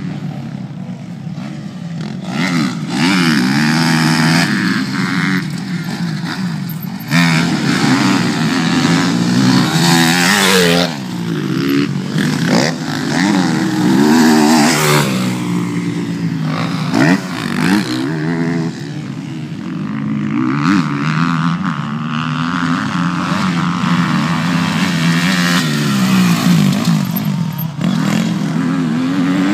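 Motocross dirt bike engines revving, their pitch rising and falling again and again as the throttle opens and closes.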